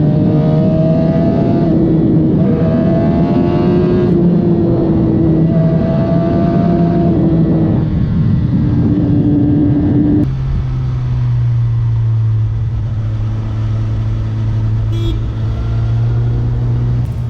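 Suzuki GSX-R1000 K7 inline-four engine on its stock factory exhaust, pulling up through the gears: the pitch climbs in several pulls with a short drop at each upshift. About ten seconds in it settles into a steady, lower drone.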